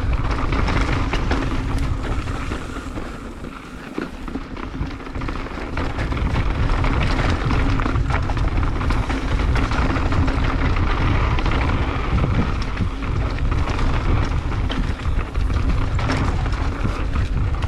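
Mountain bike descending a fast dirt trail at speed: wind rushing over the camera microphone and tyres rolling on dirt, with frequent short knocks and rattles from bumps.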